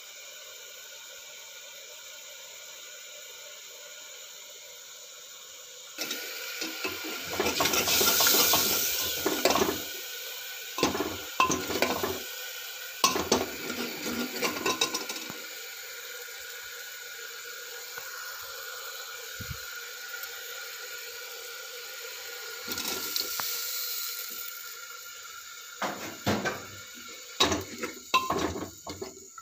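Cooking pots and metal utensils clattering, clinking and scraping, in a busy spell starting about six seconds in and again near the end, with a loud stretch of hissing noise around the eighth second.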